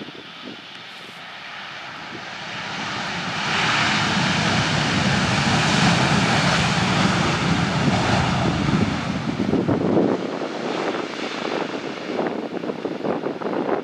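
Jet airliner flying past low on final approach to land. Its engine noise swells over a few seconds, holds loud, then fades from about ten seconds in. Wind buffets the microphone near the end.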